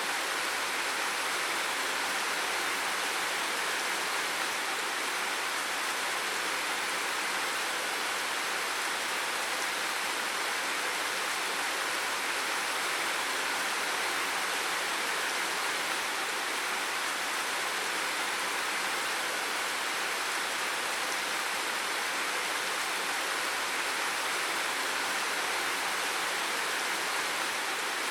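Steady, unbroken water noise, an even hiss with no separate splashes or drops standing out.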